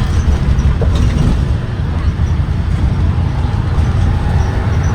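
Blue Bird Vision propane school bus running, a steady low engine and road rumble.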